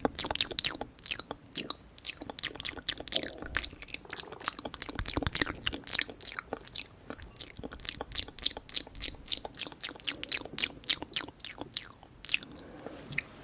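Close-miked mouth chewing: a rapid run of wet smacking clicks, several a second, thinning out near the end.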